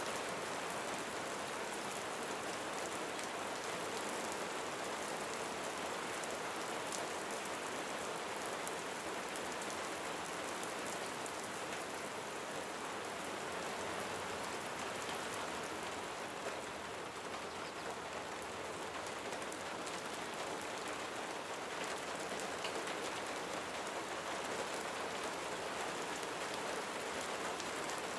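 Steady rain falling on a roof, an even hiss of rainfall with many small individual drop hits throughout.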